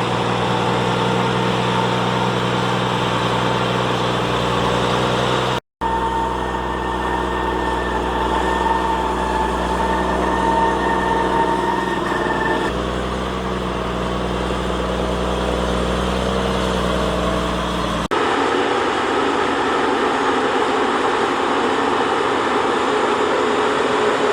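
Claas Xerion 3300 tractor's engine running steadily as it works a silage pile, a deep drone with a higher whine over it. There is a brief break about six seconds in, and past the middle the deep low hum drops away while the engine keeps running.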